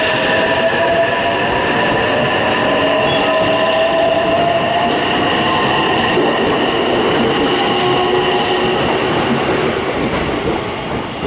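An electric train running along the platform: steady rail and wheel noise with a held whine from its motors, falling away near the end.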